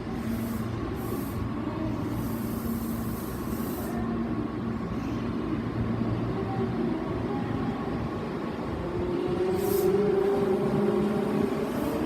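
Tokyo Metro 7000 series electric train running, with steady motor tones and a haze of rolling noise; near the end the tones rise in pitch and the sound grows louder, as when the train picks up speed.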